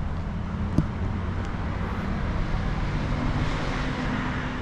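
Steady low rumble of road traffic, with a single short click a little under a second in.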